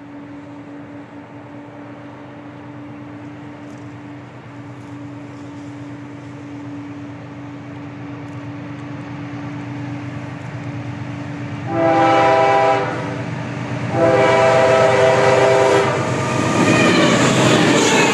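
A CSX train approaches with a steadily building rumble. The locomotive's air horn sounds a chord, a short blast about twelve seconds in and then a longer one about two seconds later. The lead locomotive then passes close by, loud, with wheel and rail noise.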